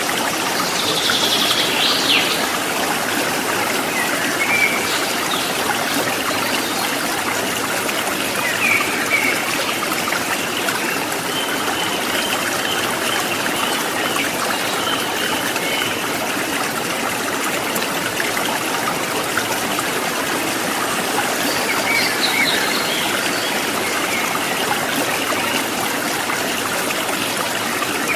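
Steady trickling and rushing of stream water over rocks, with a few faint bird chirps now and then.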